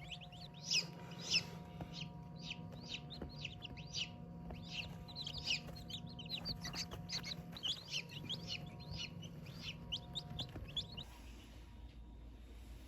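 A brood of chicks peeping: many rapid, high-pitched calls overlapping, stopping suddenly about eleven seconds in. A steady low hum runs beneath them.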